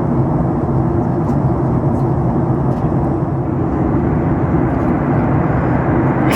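Steady cabin noise of a Boeing 737-9 MAX in flight during descent: a constant rush of airflow and engine noise with a steady low hum.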